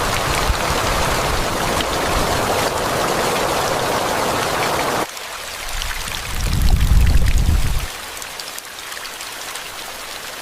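Steady rain sound, louder for the first half, then dropping suddenly to a lighter rain, with a low rumble that swells and fades for a second and a half in the second half.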